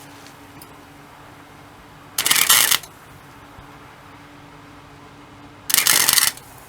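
Two short bursts of welding on thin car body sheet metal, each about half a second long, crackling.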